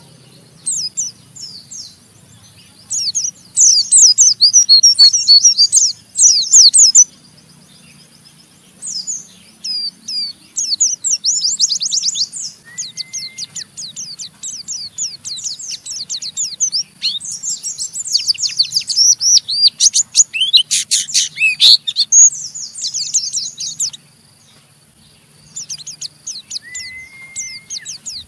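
White-eye (pleci) singing its fast, rough, chattering 'ngeriwik' song: long bouts of very rapid high notes with short pauses between them. Two brief, steady, lower whistles stand out among the chatter.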